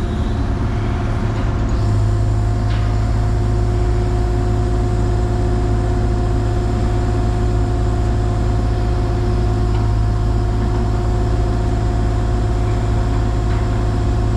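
Excavator engine running steadily at constant speed, a continuous low drone with a steady hum.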